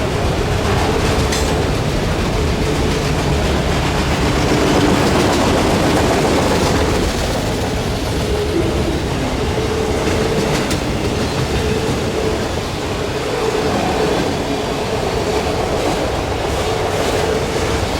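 Freight train rolling past at close range: a steady, loud rumble of wheels on rail with clickety-clack from the rail joints.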